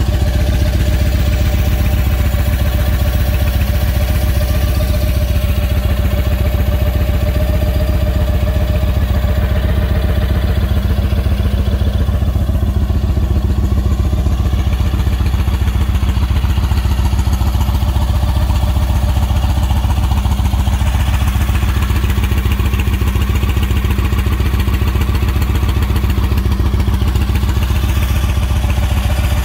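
2013 Yamaha Star Raider SCL's 1,854 cc air-cooled V-twin idling steadily, an even low-pitched run of firing pulses.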